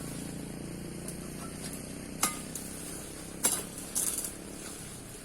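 A few short, sharp metallic clinks and knocks, one with a brief ring, over a low engine hum that fades away.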